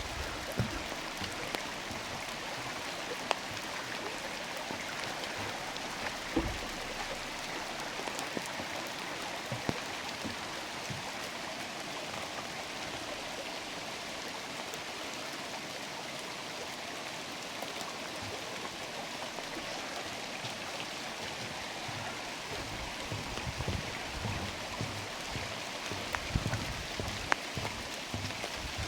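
Steady rain falling through the forest, with scattered sharp drips; a run of short low thuds comes in the last few seconds.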